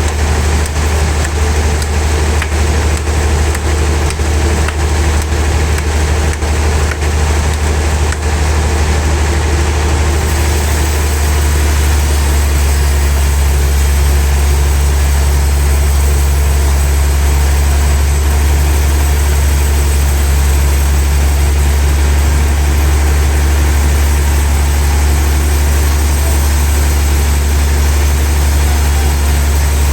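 Sawmill log saw running steadily with a deep, constant hum. About ten seconds in the sound changes and settles, with more high hiss, into an even steady run.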